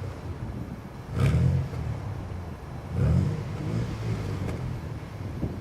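Opel Vectra B's 2.6 V6 (Y26SE) engine idling and revved up twice, about a second in and about three seconds in, dropping back to idle between. It breathes through a Jetex Group A cat-back exhaust with the pre-catalysts removed.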